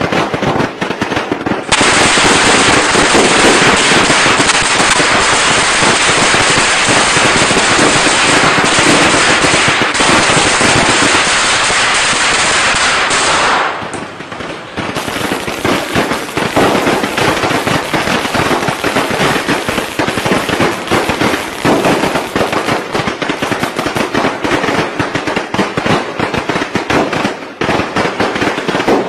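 Strings of traditional Vietnamese Tết firecrackers going off in a dense, rapid crackle of pops. The barrage thins briefly about 14 seconds in, then another string carries on just as densely.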